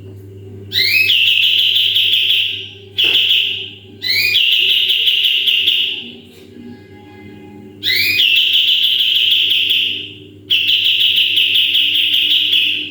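Kapas tembak songbird giving its long, piercing 'tembakan' calls: five sustained high whistled notes, each lasting a second and a half to two seconds and opening with a quick rising slur. A faint steady low hum lies underneath.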